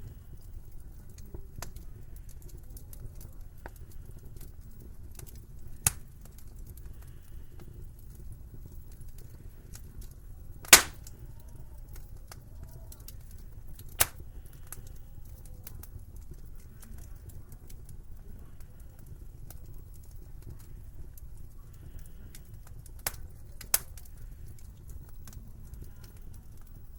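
Wood fire crackling in a fireplace, with a few sharp isolated pops, the loudest about eleven seconds in, over a low steady rumble.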